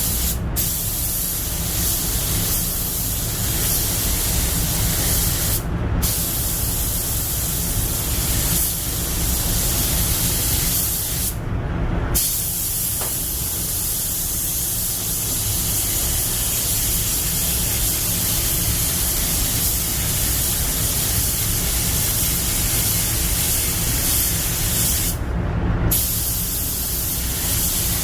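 Compressed-air paint spray gun hissing in long passes, stopping briefly four times between strokes, over a steady low rumble.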